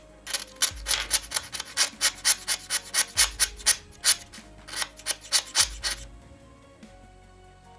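A new carbon motor brush for an angle grinder being filed down by hand in quick rasping strokes, about four a second, stopping about six seconds in. It is being sized because it is slightly too big to slide in its brush holder.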